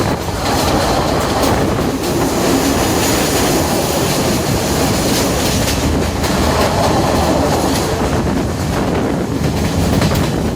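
A diesel multiple-unit express train running along the track, its wheels clattering over the rails with a steady loud rush of running noise and a hint of wheel squeal.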